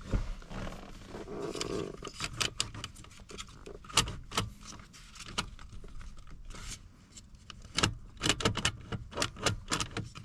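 Irregular clicks, knocks and rattles of plastic and metal parts as the ignition lock assembly is worked loose from a 2010 Ford Escape's steering column, with a few sharper knocks among them.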